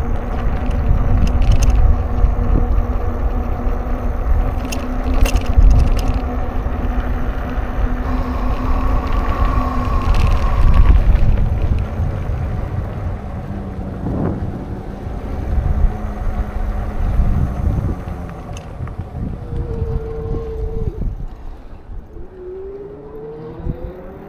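Wind rumbling on the microphone of a moving bicycle, with motor traffic passing close by. The rumble eases off over the last few seconds.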